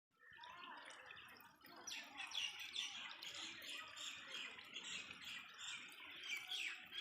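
Several small birds chirping: quick, falling chirps in a busy chorus from about two seconds in, over softer warbling at the start.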